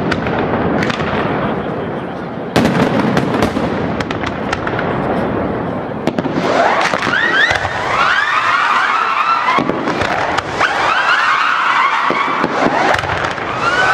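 Fireworks display: shell bursts and crackling for the first half. About halfway through, a barrage of whistling fireworks takes over, with many overlapping rising shrieks.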